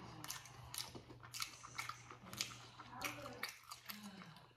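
A person chewing a mouthful of food close to the microphone: soft, wet smacks and mouth clicks at an irregular pace, a few each second.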